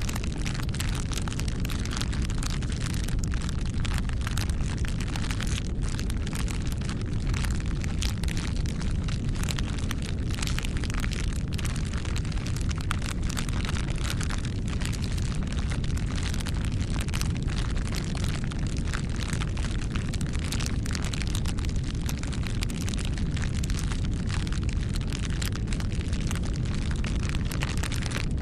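Campfire burning: a steady low rumble of flames with dense crackles and pops from the burning wood.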